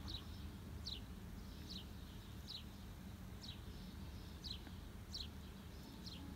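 A bird repeating a short, falling high call eight times at an even pace, a little under one a second, over a low steady background rumble.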